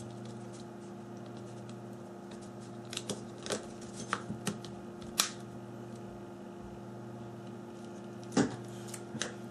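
Sharp little clicks and taps of a smartphone's plastic back cover being fitted and handled, scattered through the middle with the loudest about five seconds in and again near the end, over a steady low hum.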